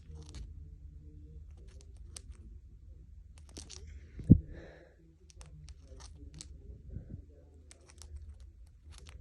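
Cockatiel grinding its beak: a scatter of short, dry, irregular clicks as the drowsy bird settles toward sleep. One loud thump comes about four seconds in.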